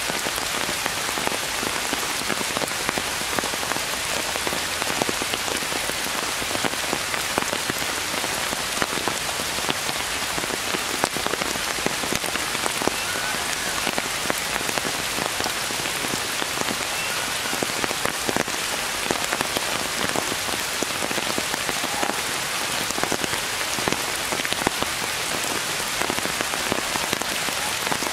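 Steady rain falling on forest leaves, a continuous hiss dotted with many separate drops ticking close by.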